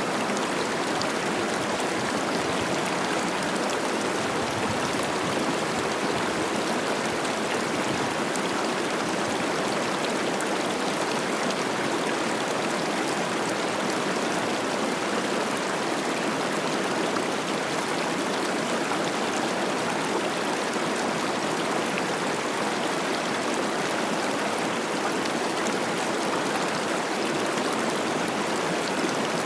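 Cache la Poudre River running high with spring snowmelt: a steady rush of babbling water.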